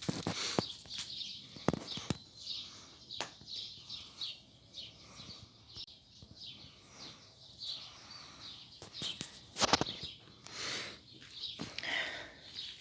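Small birds chirping and calling repeatedly, with a few sharp clicks and rustles in between, the loudest just under ten seconds in.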